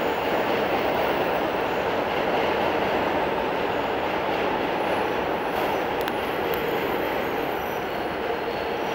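R62A subway train on the 7 line running along the track, a steady rail rumble that eases slightly, with faint high wheel squeals and a couple of sharp clicks about six seconds in.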